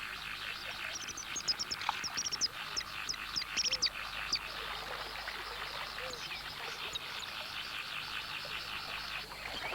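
Wetland ambience: a steady chorus of calling animals, with many short, high chirps that are thickest in the first four seconds or so.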